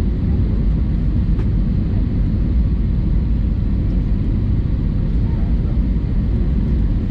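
Steady low roar of an Airbus A320-200's engines and airflow, heard inside the passenger cabin.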